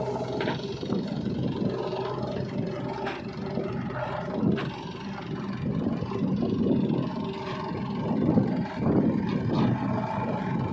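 Backhoe loader's diesel engine running steadily, with repeated louder surges of rough rumbling noise as it works.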